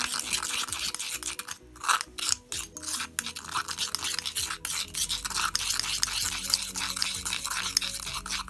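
Metal teaspoon stirring and scraping a gritty paste of earth pigment, gum arabic and honey around the inside of a stone mortar, in quick irregular strokes with a few brief pauses.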